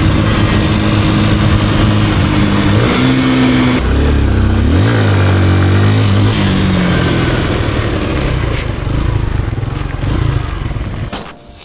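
Kawasaki KLX150E's single-cylinder four-stroke engine running as the bike is ridden, with a noisy rush over it throughout. The engine note shifts up and down in pitch a few seconds in, then falls and fades away near the end as the throttle is rolled off.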